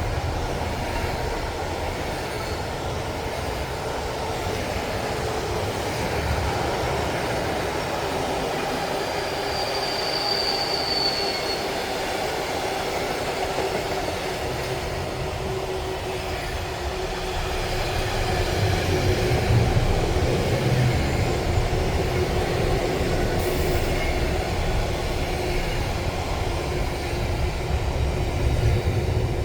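Train running past on the rails: a continuous rumble with a drawn-out tone, a brief high squeal about ten seconds in, and louder passing from about two-thirds of the way through.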